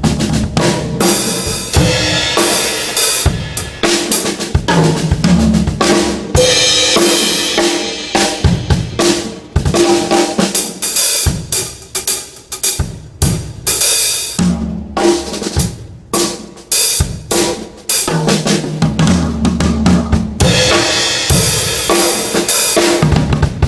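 Drum kit being played with snare, bass drum and cymbals, with rapid, irregular hits and fills, tested at a sound check.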